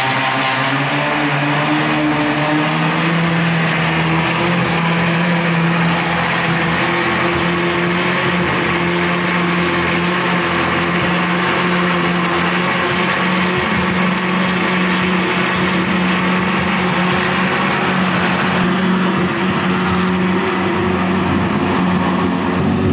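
Ferrari F12's V12 engine running steadily at a held, even pitch, echoing off the concrete of an underground garage.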